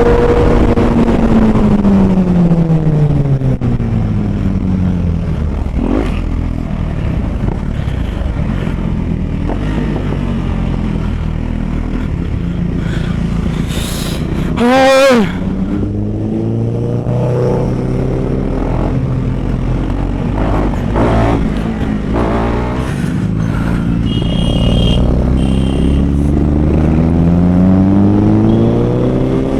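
Motorcycle engine on the move: its revs fall over the first few seconds, run low and steady, then climb again near the end as it accelerates. About halfway through, a short, loud pitched blast cuts over it.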